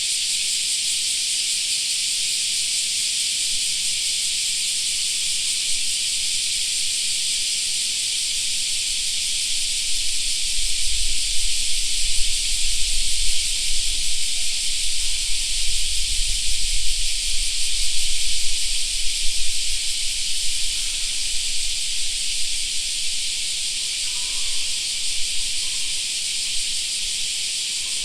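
Dense chorus of cicadas singing, a continuous high, hiss-like drone. From about ten to twenty seconds in, an uneven low rumble comes in underneath and then fades.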